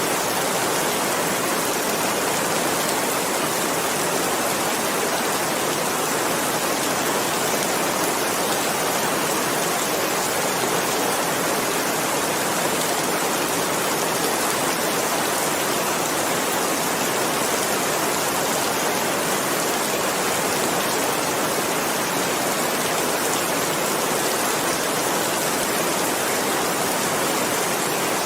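Steady, unbroken rain, a dense even hiss of falling water with no separate drops or other sounds standing out.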